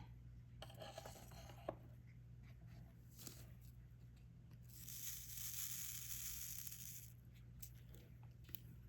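Faint diamond-painting handling sounds: small clicks and scratches of resin drills and stylus, then a soft crinkling, tearing-like rustle of plastic about five seconds in that lasts roughly two seconds, over a steady low electrical hum.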